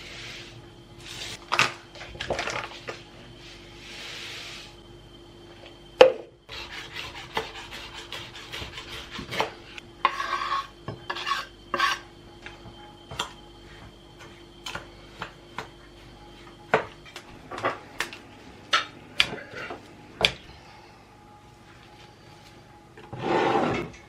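Kitchen prep sounds: utensils and dishes clinking, knocking and scraping on a board, with a sharp knock about six seconds in, over a faint steady hum.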